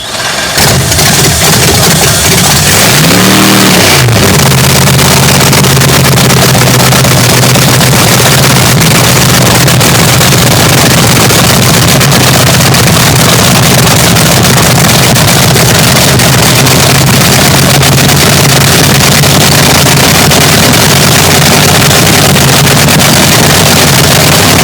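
Swamp Rat III front-engine nitro-burning dragster engine firing up and cackling at a very loud, steady idle, with one quick rev blip about three seconds in.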